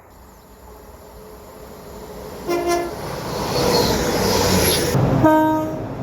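Train approaching, its rumble growing steadily louder, sounding two short blasts on its horn, one about halfway through and a slightly longer one near the end.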